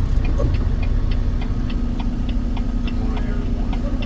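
Truck's indicator relay clicking evenly, about three to four clicks a second, over the steady low rumble and hum of the engine heard from inside the cab.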